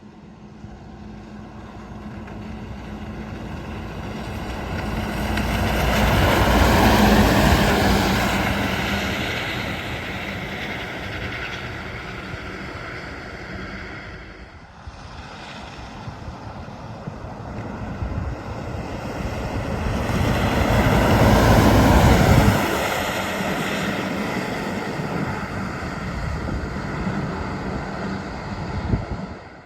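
Two heavy trucks driving past one after the other. The engine and tyre noise of each swells to a peak and fades, the first peaking about seven seconds in and the second a little after twenty seconds.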